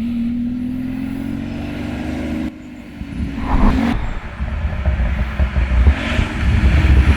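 A supercar's engine and exhaust under acceleration: an engine note climbing slowly in pitch, cut off suddenly about two and a half seconds in, then a louder, rougher stretch with uneven surges of exhaust.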